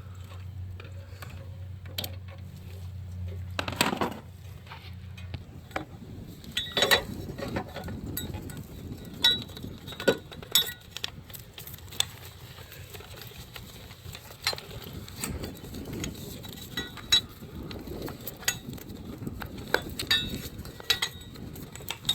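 Metal hand tools clinking and clicking against bolts and brackets in an engine bay, in irregular sharp taps, while fasteners are threaded in and snugged loosely. A low steady hum underneath stops about five seconds in.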